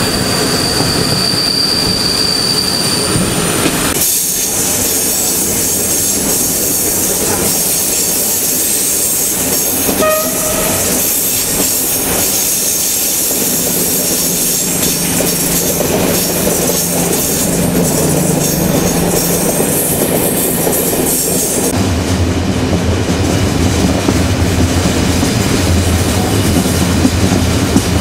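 Intercity passenger train running on the rails, heard aboard: a steady rumble of wheels and track, with a thin high wheel squeal in the first three seconds and a brief pitched toot about ten seconds in. Over the last six seconds the sound turns into a deeper low drone.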